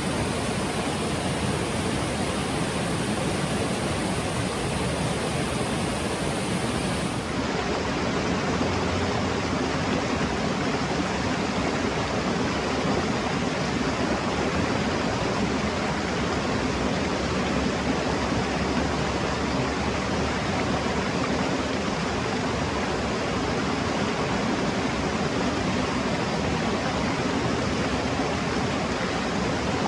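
Mountain stream rushing steadily, a full, even wash of water noise; the highest hiss thins out about seven seconds in.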